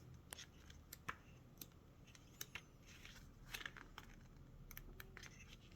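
Faint, scattered rustles and clicks of paper and packaging being handled, about a dozen short sounds.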